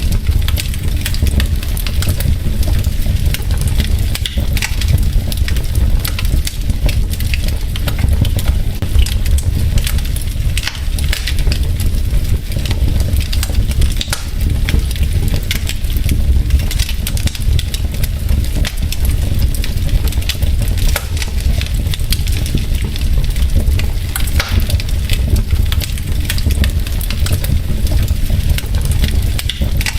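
Wood fire burning in a fireplace: logs crackling with a dense, constant stream of small pops and snaps over a steady low rumble of the flames.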